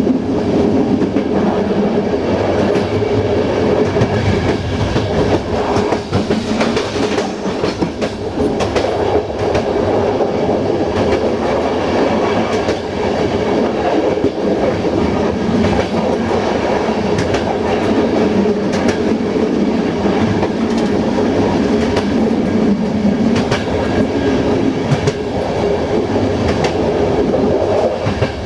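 Passenger train running at speed, heard from the rear of the last coach: a steady rumble of wheels on rail, with scattered sharp clicks as the wheels pass over rail joints.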